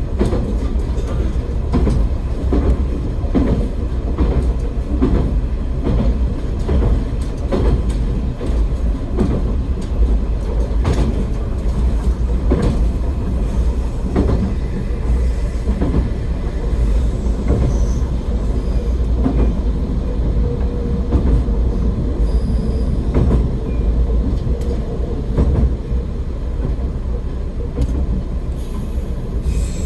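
AN-8800 diesel railcar running along the line: a steady low engine and running rumble with repeated clacks as the wheels pass over rail joints.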